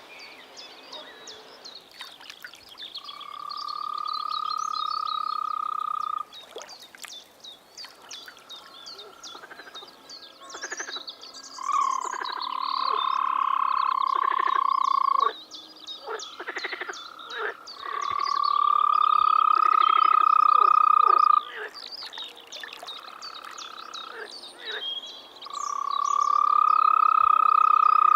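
A frog chorus: one frog gives a long, steady, high trill of about three seconds, repeated four times with pauses between. Around it, other frogs keep up a busy mix of shorter croaks and clicks.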